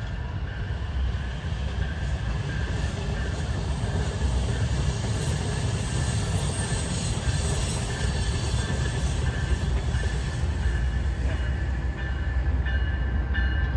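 Amtrak passenger train led by a Siemens ALC-42 Charger diesel-electric locomotive approaching and slowing into the station: a steady low rumble growing slowly louder, with thin squealing tones that get stronger near the end.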